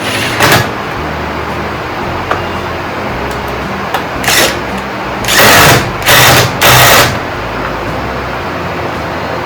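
Several short bursts of a small power tool running, each about half a second: one near the start, one about four seconds in, and three in quick succession around five to seven seconds. They come from fastening the lawnmower's recoil starter back on.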